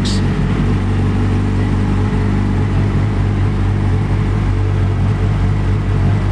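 Yamaha YZF-R6 inline-four sport-bike engine running steadily at idle through an aftermarket Jardine Shorty exhaust.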